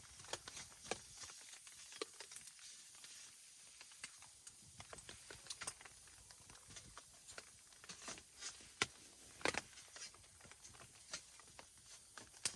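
Wood fire crackling: irregular sharp pops and snaps over a faint hiss, a few louder pops about eight and nine and a half seconds in.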